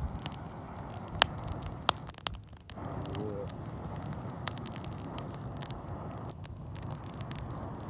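Wood fire crackling with sharp pops, the loudest two about a second and two seconds in, under long breaths of air blown through a fire-blowing pipe, each a steady rush lasting a few seconds, with short breaks about 3 s and 6.5 s in.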